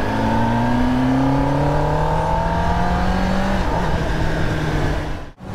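Kawasaki ZX-10R's inline-four engine on its stock exhaust, pulling and rising steadily in pitch. About three and a half seconds in, the pitch steps down as it shifts up a gear, then the engine runs on steadily. The sound cuts out briefly near the end.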